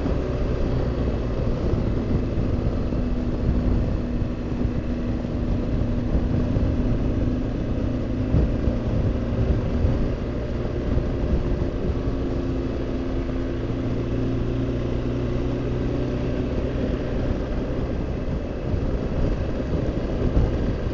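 BMW R1200GS Adventure's boxer-twin engine running on the move, under a steady rush of wind and road noise, its note rising and falling a few times.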